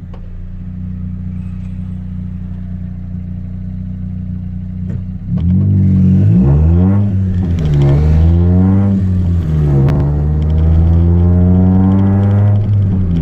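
Chevrolet Celta 1.0 four-cylinder engine with a 4x1 header and straight-through two-inch exhaust with no mufflers, running steadily. About five seconds in it gets much louder as it is revved up and down several times, then held high near the end.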